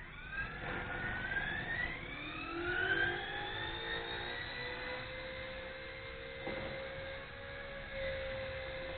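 WLtoys V930 RC helicopter's brushless motor and rotor spooling up: a whine that rises in pitch over the first four seconds, then holds steady at speed.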